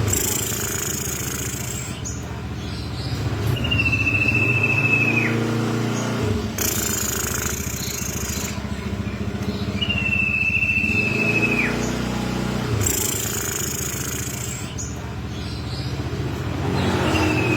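Common iora giving a long, level whistle that drops sharply at the end, repeated three times about every six seconds, with thin high notes in between. Under it runs a loud, low drone of a motor vehicle engine.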